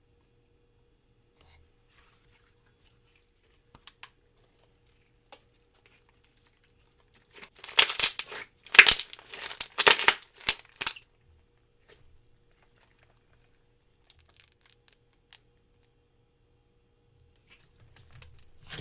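Crisp crackling and crunching: a run of quick, loud strokes lasting about three seconds in the middle, with only faint small clicks before and after.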